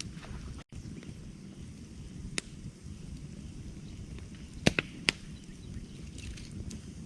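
Wood campfire burning with a steady low rumble and a few sharp crackling pops, the loudest a quick double pop about two-thirds of the way through. The sound cuts out for an instant under a second in.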